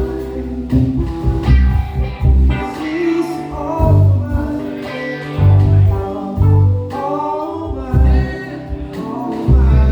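A live soul band playing: electric bass and drums thumping on the beat under keys, with a gliding melody line on top.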